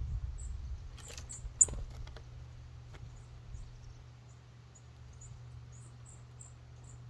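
Small songbirds giving short, very high chips, about a dozen spread through, with a few sharp taps or clicks about one to two seconds in, over a low steady hum.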